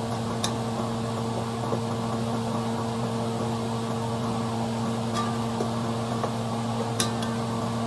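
Steady electric fan hum with a constant low drone, broken by two sharp clicks: one about half a second in and one near the end.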